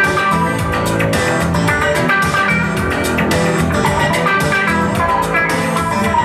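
Live band playing an instrumental passage: guitar over bass and a steady drum beat.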